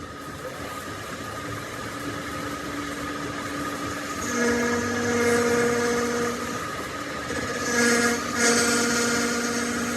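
A metal-cutting machine tool running steadily with a hum. About four seconds in it grows louder with a ringing, whining tone as the cut bites, broken briefly near the end.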